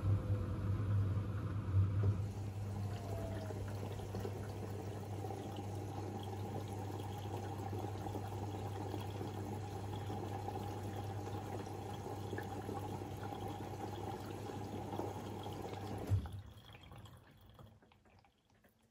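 Siemens iQ700 washing machine with water flowing through it over a steady low hum. The hum cuts off suddenly with a thump about 16 seconds in, leaving only faint clicks and trickling.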